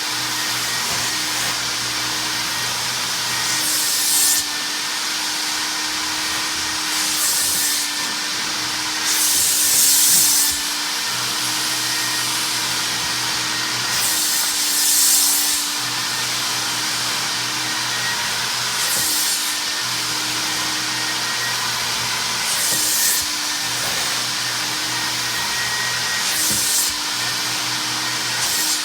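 Mytee Lite 8070 hot water carpet extractor running steadily as it extracts carpet, with a louder hiss of sucked air every three to four seconds.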